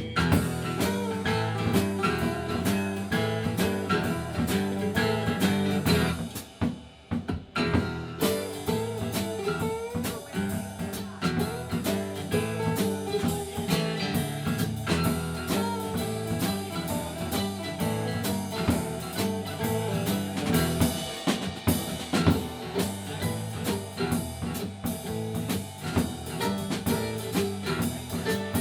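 Live blues-rock band playing an instrumental break, with drum kit and guitar over a steady beat; the music dips briefly about six to seven seconds in before the full band comes back.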